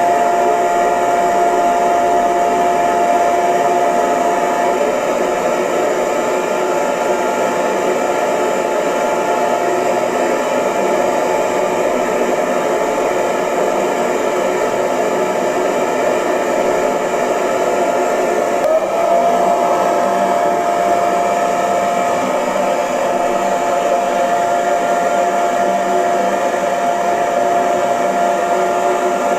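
Hair dryer running continuously, a steady rush of blown air with a motor whine over it. The whine fades a few seconds in and returns after a brief blip about two-thirds of the way through.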